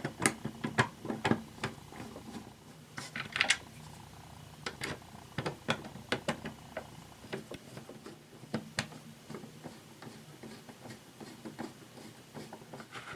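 Small screws being driven back into the plastic housing of a TOMY Mr. Mouth toy with a screwdriver: a scattering of light, irregular clicks and ticks.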